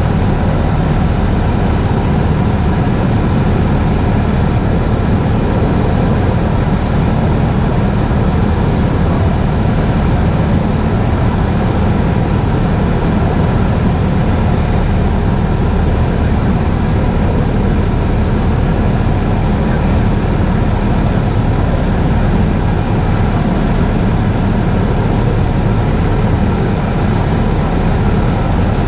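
Cessna 172's piston engine and propeller droning steadily in flight, with no change in power.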